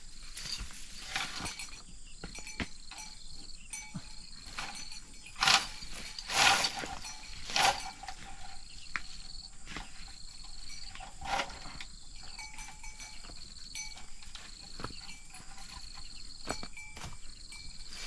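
Insects drone steadily at a high pitch. In the middle, three loud short sounds come close together, and a fourth follows a few seconds later.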